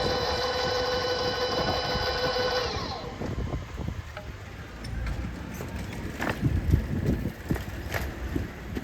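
Tobu 60000-series electric train's inverter whine, a stack of steady tones that glides down and stops about three seconds in as the train slows at the platform. Low rumble, a few clunks and wind noise follow.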